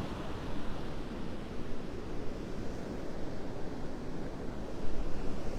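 Surf breaking on the beach with wind on the microphone: a steady rushing noise.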